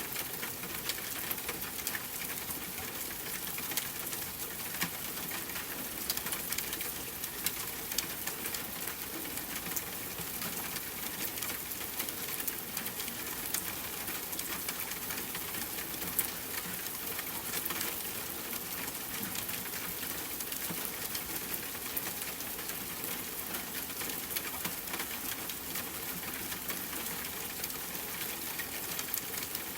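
Steady rain falling on a tent, mixed with a campfire crackling; the haze is sprinkled with small sharp pops and drop hits.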